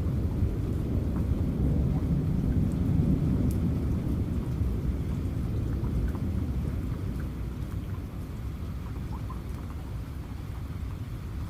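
Steady rain with a low rumble of thunder that swells about three seconds in and dies away over the second half, with a few separate drops ticking on top.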